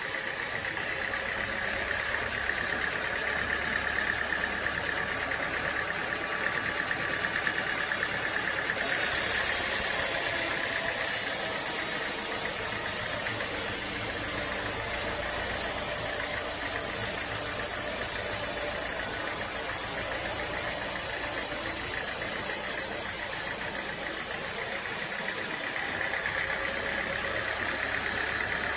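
Sawmill machinery running steadily with an engine hum. About a third of the way in, a louder high-pitched hiss starts suddenly, runs for about sixteen seconds, then cuts off just as suddenly.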